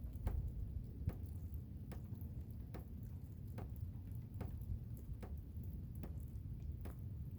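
Blizzard wind as a steady low rumble, with a sharp tick repeating evenly a little more than once a second over it.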